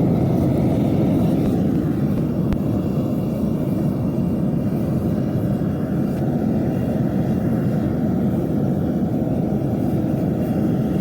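A loud, steady low rumble with no clear pitch, starting and stopping abruptly.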